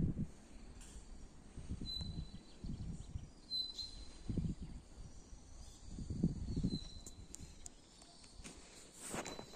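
Footsteps of a person walking, soft thuds every half second to second. Over them, a short, thin, high chirp repeats every second or two.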